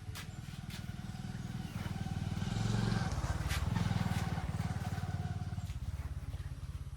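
An engine passing by: a low, rough engine sound grows louder to a peak about three to four seconds in, then fades away, with a few faint clicks.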